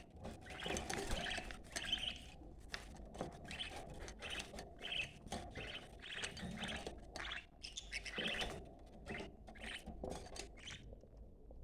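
Budgerigars chattering and warbling in a stream of quick chirps, stopping about a second before the end.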